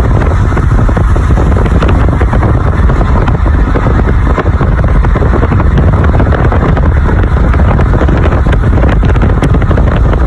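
Severe thunderstorm gust-front winds, likely over 70 mph, buffeting the microphone as a loud, steady rushing noise heaviest in the low end.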